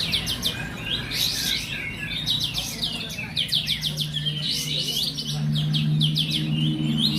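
Several caged songbirds sing at once, a dense chorus of fast, repeated chattering notes and whistles. A steady low hum comes in about halfway through.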